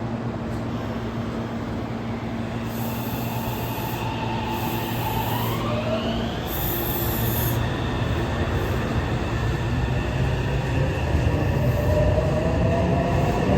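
Meitetsu electric train pulling away, its traction-motor whine rising in pitch as it speeds up, over a steady low hum; it grows louder toward the end.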